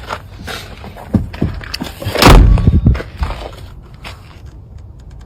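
Knocks and clunks from the body of a junked Audi being handled, with one heavy thump and rattle about two and a half seconds in.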